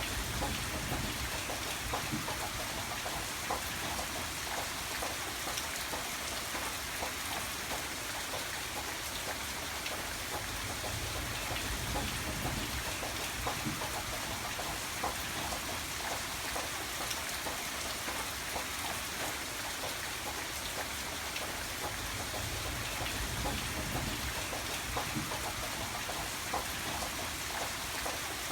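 Steady rain with many separate drops ticking through an even hiss, and a low rumble that swells and fades a few times.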